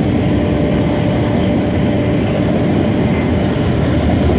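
CN freight train's covered hopper cars rolling past on the rails with a steady, loud rumble of wheels on track, and a steady tone over it that fades out after about three seconds.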